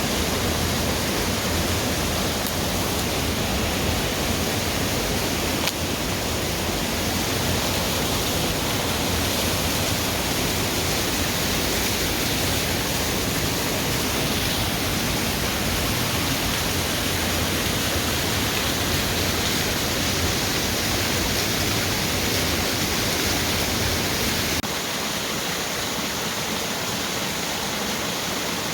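Waterfall pouring into a forest creek, a steady full rush of water. Near the end the low rumble thins and it gets slightly quieter.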